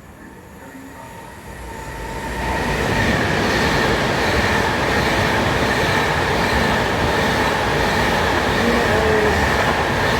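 A train passing close through the station at speed: a steady rush of wheels on rail with a steady whine, growing loud over the first few seconds and then holding.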